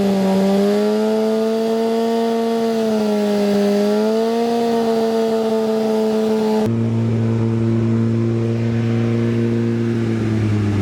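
A 32-year-old car engine held at a fast idle of around 3,000 RPM while Seafoam is cycled through it. The note holds steady, sags slightly a couple of times, and about two-thirds of the way through changes abruptly to a deeper tone.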